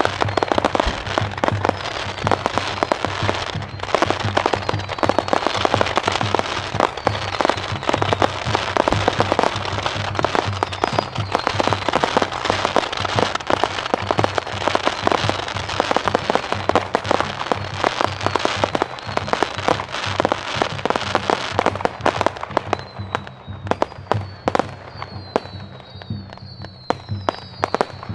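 Ground-level firework shooting coloured stars and a fountain of sparks: a dense, continuous run of cracks and pops. About 22 seconds in it thins to scattered pops, with several short whistles near the end.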